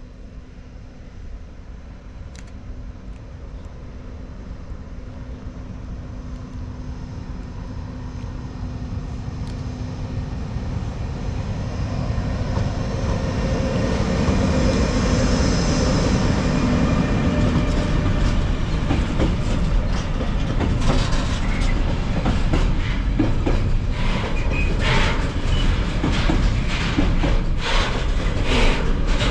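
Freight train approaching and growing steadily louder for about fourteen seconds, then passing close by with a rapid clickety-clack of wagon wheels over the rail joints.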